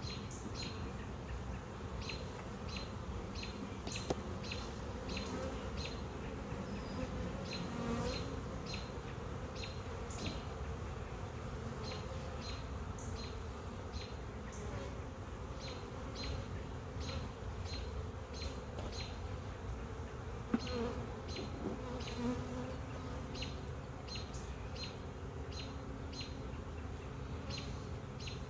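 Honey bees buzzing around an opened hive: a steady low hum, with a regular run of short high ticks, about two a second, over it.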